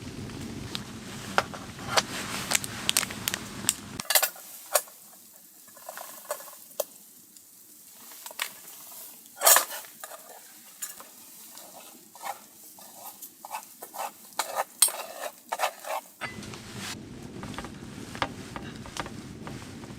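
Food sizzling in a pan while a utensil stirs and clinks against it, in sharp irregular scrapes and taps from about four seconds in until about four seconds before the end. Before and after that, a steady low rumble of wind.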